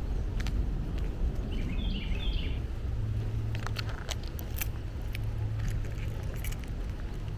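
Outdoor woodland ambience over a steady low rumble, with a short burst of high bird chirps about two seconds in. From about three and a half seconds, a run of light sharp clicks and crunches from footsteps on the trail.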